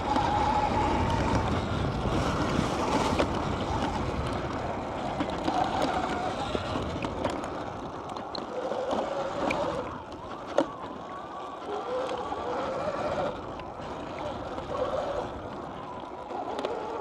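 Wind rushing over the microphone while a dirt bike is ridden, with a faint motor tone wavering up and down. It grows quieter about halfway through as the bike slows, and there is one sharp click about ten seconds in.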